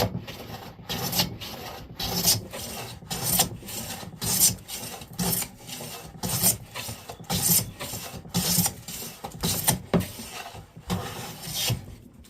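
Hand plane being pushed along a board's edge in many short passes in quick succession, the blade shaving wood with a scraping rasp. The cut is still skipping across high spots because the edge is not yet level, and is only beginning to become one continuous cut.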